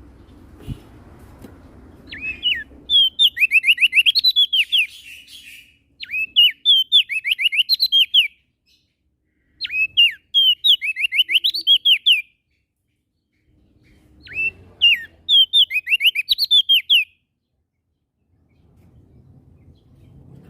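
A songbird singing in four bursts of quick, sweeping whistled notes, each burst two to four seconds long, with short pauses between.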